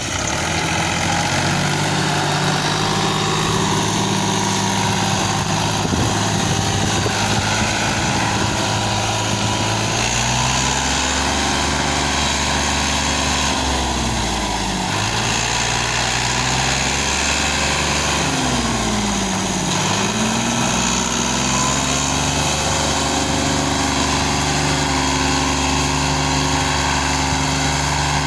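Fiat 480 tractor's three-cylinder diesel engine running steadily under load, its note sagging and recovering twice around the middle.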